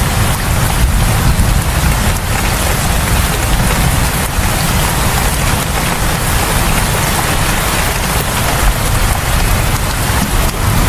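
Heavy rain falling, a dense steady hiss with a strong low rumble underneath and scattered individual drop hits.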